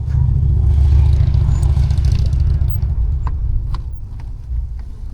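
Motorcycle engine starting up loud and low right at the opening, strongest about a second in, then easing off over the next few seconds.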